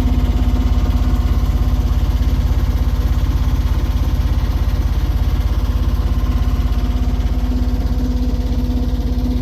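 Sailing catamaran's engine running steadily under way, with a rapid, even pulse and a steady hum.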